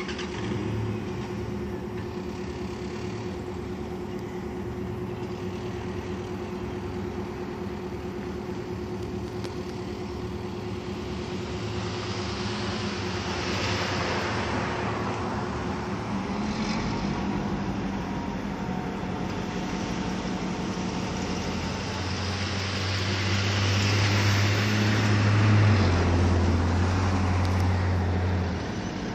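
Colebrookdale Railroad locomotive 7236 running with a steady diesel engine hum. The engine gets louder and deeper for several seconds near the end, then eases off.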